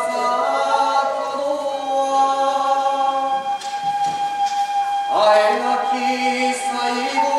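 Kagura song (kagura-uta) chanted in long held notes, with a second sustained tone beneath. The pitch rises into a new phrase about five seconds in.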